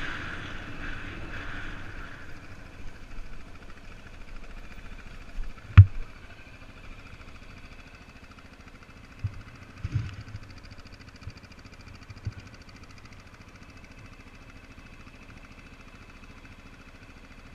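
A vehicle engine running steadily, easing off over the first couple of seconds, with a few sharp thumps, the loudest about six seconds in.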